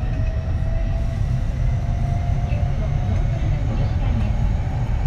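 Running noise inside a Kintetsu 3220 series electric train: a steady rumble of wheels on rails, with faint steady tones above it.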